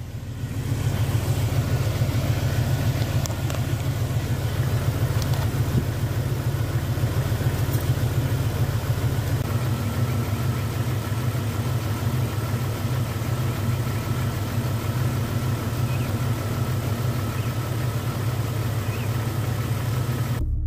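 A Jeep Cherokee XJ's 4.0-litre straight-six idling steadily, warmed up, with the automatic transmission in neutral. About halfway through, a faint steady whine joins the idle.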